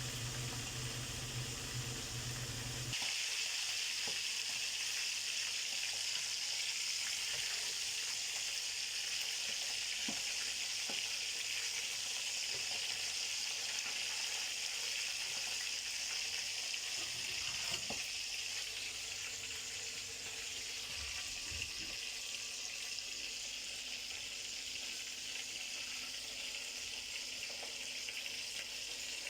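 Ukep quail pieces frying in hot oil: a steady sizzle that sets in about three seconds in and keeps going, with a few light knocks along the way.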